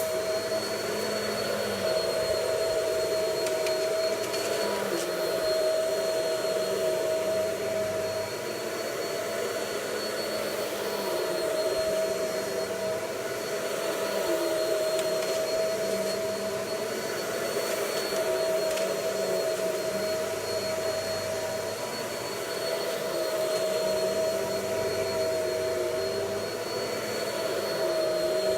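Vacuum cleaner running continuously, its motor whine holding a steady pitch, with gentle swells and dips in loudness as it works over carpet.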